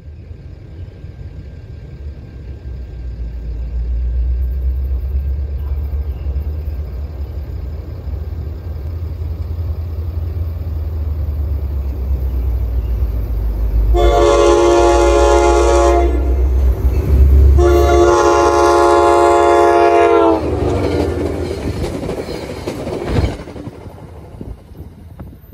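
Train approaching with a low rumble that builds, then its horn sounds two long blasts; the pitch drops at the end of the second blast as it passes, and a lower, weaker tail trails off. A single sharp knock comes near the end.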